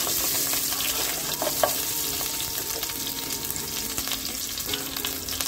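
Chopped ginger and mustard seeds frying in hot oil in a nonstick pan: a steady sizzling hiss with fine, scattered crackles.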